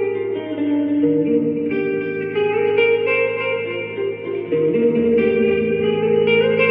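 Electric guitar, a Telecaster through a small Fender amp, playing single picked notes of an arpeggio and melody line. Each note rings on into the next under reverb and delay.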